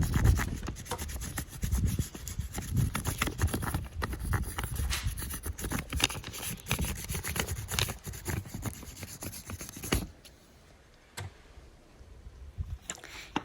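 A crayon's flat edge rubbed back and forth over paper laid on a tree trunk's bark knot: an irregular scratchy rasping that stops about ten seconds in, leaving only a few faint clicks.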